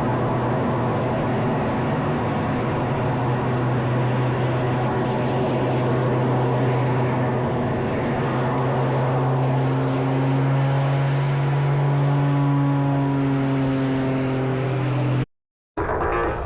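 Propeller aircraft engine running with a steady, even drone, its pitch drifting slightly in the second half. It cuts off abruptly a little before the end.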